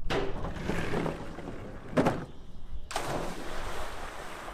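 Rushing, splashing water noise with a single sharp thud about two seconds in, then a longer splash that fades: a rider and mini bike plunging into lake water off a ramp.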